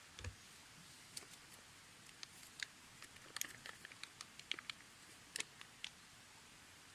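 Faint, irregular small clicks and crackles, thicker in the middle stretch, over a low steady hiss.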